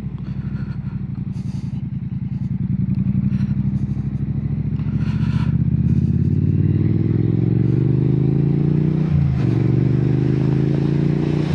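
Triumph Bonneville T120's parallel-twin engine through Hitchcock slip-on exhausts, heard from inside the rider's helmet. It runs steadily at first, then revs up from about halfway, drops briefly as a gear is shifted, and revs up again.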